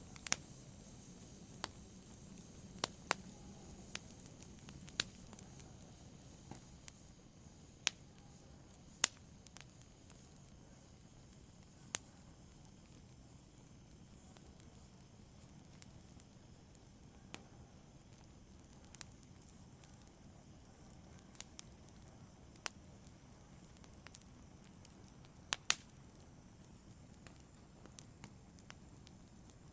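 Wood logs burning in a fireplace, crackling with irregular sharp pops over a soft steady hiss. The pops come more often in the first part, thin out in the middle, and a louder pair sounds near the end.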